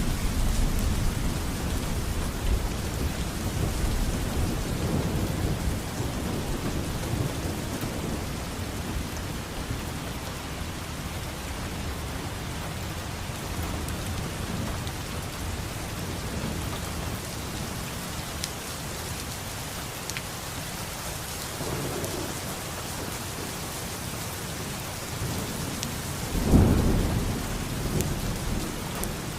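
Steady rain falling, with rolling thunder rumbling through the first third that dies away, and a sharper, louder thunderclap about 26 seconds in.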